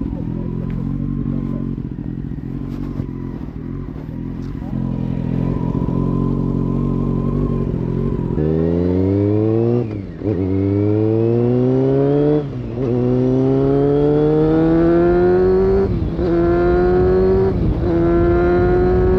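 1999 Honda CBR600F4's inline-four engine through an aftermarket Delkevic exhaust, running steadily for about eight seconds. It then pulls away, its pitch rising in each gear and dropping sharply at four quick gear changes.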